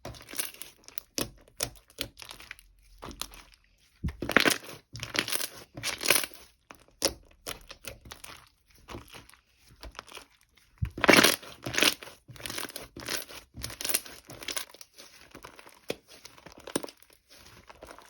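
Irregular crinkling and rustling, like material being crumpled or torn, with louder stretches about four and eleven seconds in.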